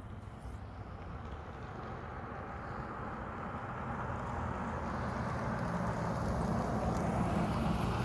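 A motor vehicle approaching, its engine and road noise growing steadily louder.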